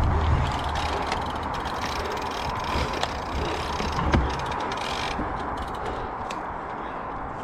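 Mountain bike being ridden over a dirt trail: a steady rolling rush of tyres with chain and drivetrain rattle and scattered sharp clicks and knocks.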